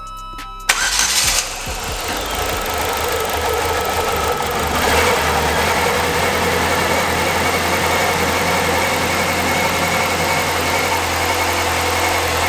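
Saab 9-3's newly swapped four-cylinder engine starting from cold: a short loud burst as it cranks and catches about a second in, then idling steadily, a little louder from about five seconds in.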